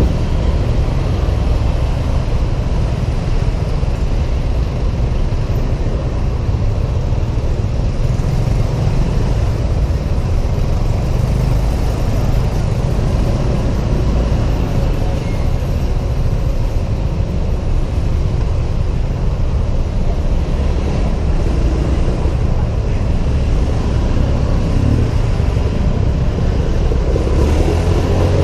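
Honda PCX 125 single-cylinder scooter riding in city traffic: steady engine and road noise with heavy low rumble from air rushing over the helmet camera.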